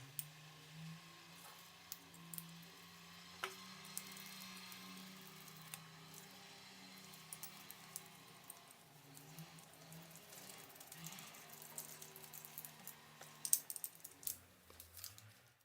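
Scattered small clicks and taps of blender parts being handled during the repair, the loudest cluster near the end, over faint soft background music.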